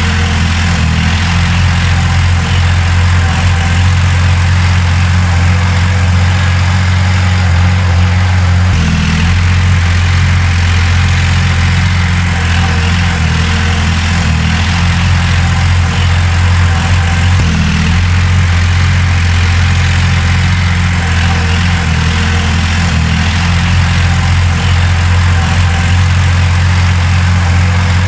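Heavy diesel engine of earthmoving machinery running steadily, with a strong low hum and a slight change about nine seconds in.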